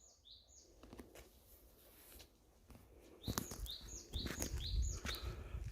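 A bird calling with short, high chirps that sweep up and then drop, repeating about twice a second, most of them from about three seconds in. Low thumps and rustling join in beneath them at the same time.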